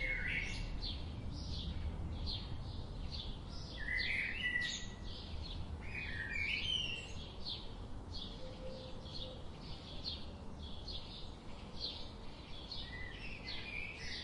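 Forest birdsong: short high chirps repeated about twice a second, with fuller warbling song phrases breaking in a few times, over a low steady background rumble.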